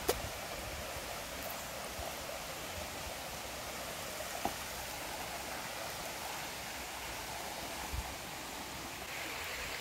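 Steady rushing background noise, with a few faint clicks.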